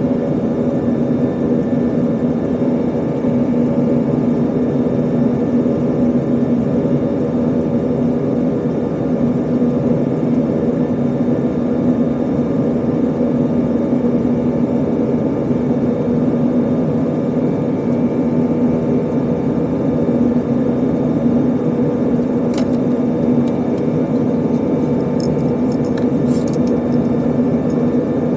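Steady cabin drone of an Airbus A320 in flight: engine and airflow noise with a few steady low hums, holding level throughout, with a couple of faint clicks near the end.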